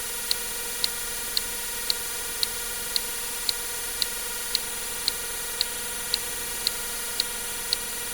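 Short, sharp clicks evenly paced at about two a second, over a constant hiss.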